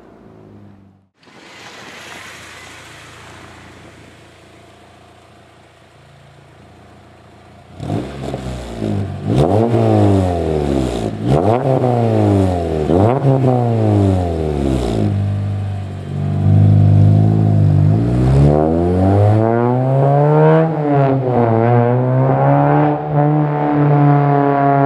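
2010 Honda Civic Si sedan's 2.0-litre four-cylinder engine through an aftermarket header and 3-inch exhaust. A faint steady hiss for the first several seconds, then about eight seconds in the engine is revved in a series of quick blips. After that it is held at higher revs, rising and falling slowly.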